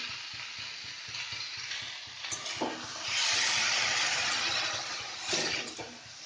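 Potatoes, onions and prawns sizzling in hot mustard oil in a wok, with a couple of short knocks. About three seconds in, water poured from a steel mug hits the hot oil and the sizzle surges loudly for about two seconds, then eases.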